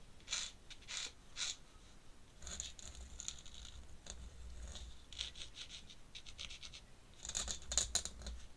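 Pen scratching on paper as ink lines are drawn: a few separate strokes, then quicker runs of short back-and-forth strokes.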